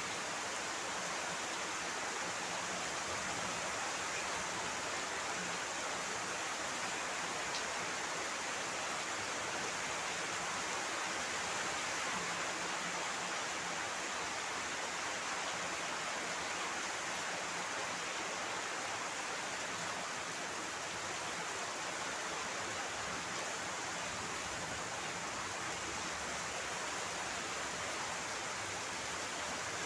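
Heavy rain falling in a steady, dense hiss that holds even throughout.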